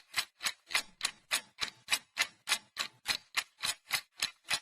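A ticking sound effect: sharp, evenly spaced ticks, about three a second, that stop abruptly.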